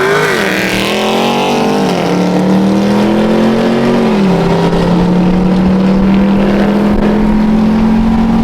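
A muscle car's engine pulling under acceleration. Its pitch climbs quickly at first, then rises slowly and drops at each gear change, about four seconds in and again near the end.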